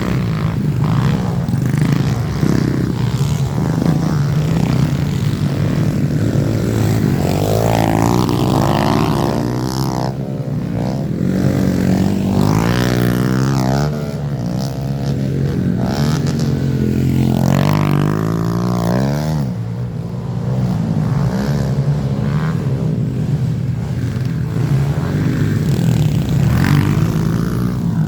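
Pit bike's small four-stroke single-cylinder engine being ridden hard, its pitch climbing and dropping again and again as the rider revs up, shifts and backs off around the dirt track.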